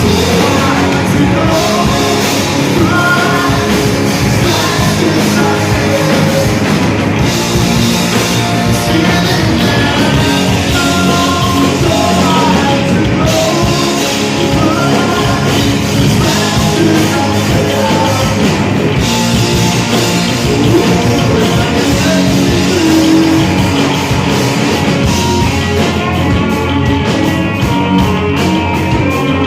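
Rock band playing with a singer, loud and steady throughout.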